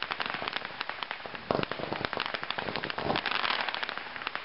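225-shot consumer fireworks cake firing: a rapid, dense string of cracks and pops, with heavier bursts about one and a half seconds and three seconds in.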